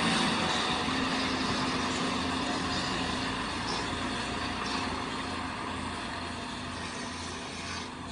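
A large vehicle's engine running steadily, slowly growing quieter.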